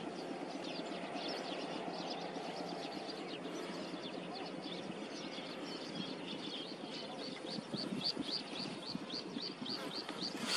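A small bird repeating a short high chirp about four times a second, clearer in the second half, over a steady low background noise.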